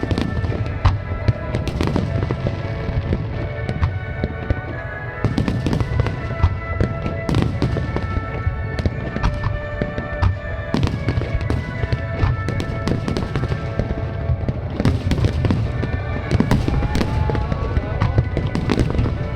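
Aerial firework shells bursting in quick succession during a fireworks finale: many sharp bangs over a continuous low rumble.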